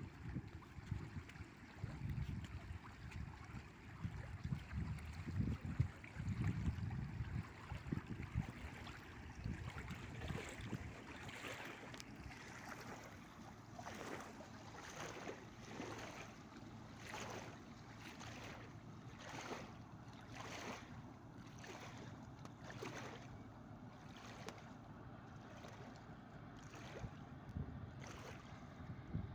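Wake waves from a fast-passing river cruise ship washing onto the riverbank, a regular train of splashes about one a second that slowly fade. A low rumbling of wind on the microphone comes before them.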